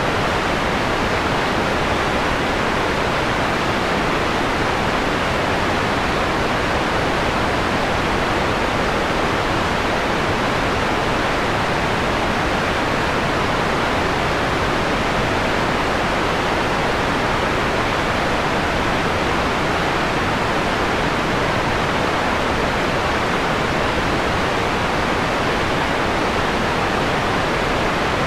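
Steady electronically generated white noise, filtered to a mellow hiss with the high treble rolled off, at an even level throughout.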